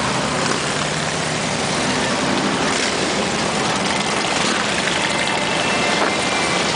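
Steady, dense din of many motorcycle engines as a long procession of bikes rides past.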